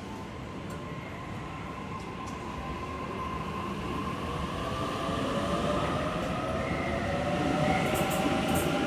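Electric passenger train at a station platform: the traction motors whine in several steady tones, some slowly rising in pitch, over a rumble that grows steadily louder.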